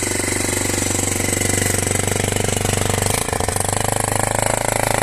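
Loncin Pruss 200 motorcycle's single-cylinder four-stroke engine idling evenly on full choke just after a cold start, sounding healthy. The idle note shifts slightly about three seconds in.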